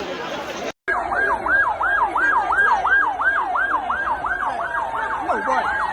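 Emergency vehicle siren sounding a fast yelp, rising and falling about three times a second, starting abruptly about a second in.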